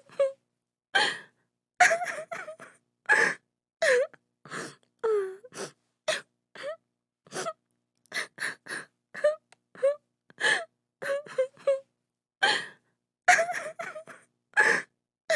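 A woman crying: short sobbing gasps and broken, wavering wails, one after another with brief silences between.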